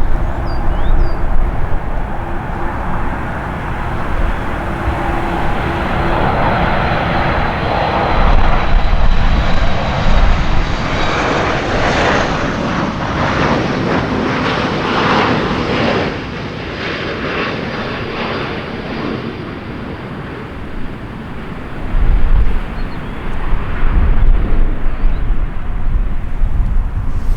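Boeing 737 MAX 9 airliner on its arrival, its CFM LEAP-1B turbofan engines running loud: the jet noise builds and is loudest for about ten seconds in the middle as the jet passes, then eases. Strong low rumbles come in near the end.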